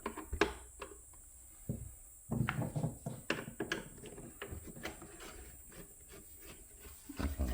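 Irregular clicks, knocks and scraping as parts of an espresso machine's housing are handled and worked loose during disassembly.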